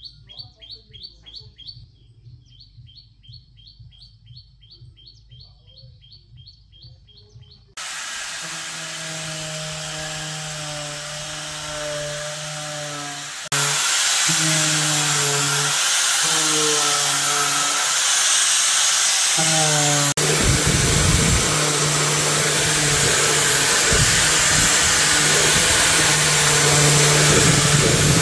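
A bird chirping in a fast, even series, then a sudden cut to loud power-tool or machine noise with a humming tone that wavers in pitch. The machine noise grows louder about halfway through, and heavy low thumps join it near the end.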